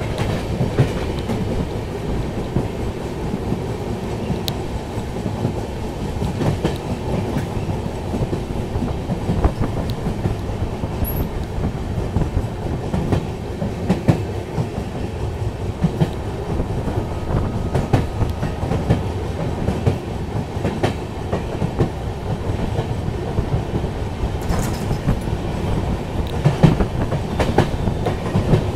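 Express train running, heard from aboard a coach. There is a steady rumble of wheels on the track, with scattered sharp clicks of the wheels passing over rail joints.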